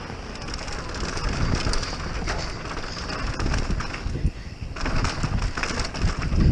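Wind buffeting the microphone, a rumbling noise that eases briefly about four seconds in.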